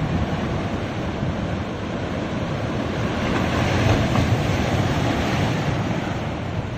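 Ocean surf breaking and washing up on a beach, a steady rush of water that swells a little about halfway through.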